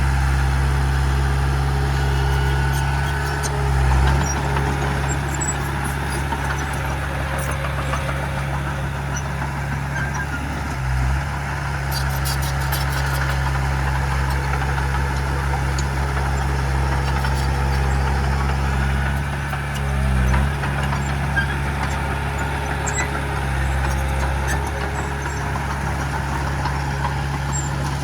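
Heavy diesel engine of earthmoving equipment running steadily under load, with brief changes in engine note about 4, 11 and 20 seconds in. A few faint sharp clicks come about halfway through.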